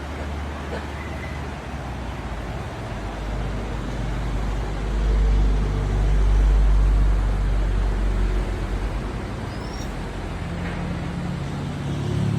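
Road traffic: motor vehicle engines running, growing louder about halfway through and again near the end.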